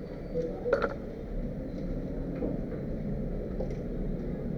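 Steady low background rumble, with one short sharp tap about a second in and a few faint ticks after.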